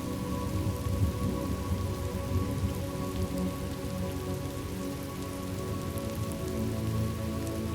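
Steady rainfall with a low rolling rumble of thunder, under soft held notes of ambient background music.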